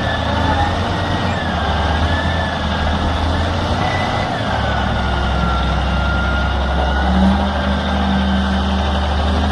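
Heavy vehicle engine running steadily with a deep hum, and a thin high whine that slowly wavers in pitch above it.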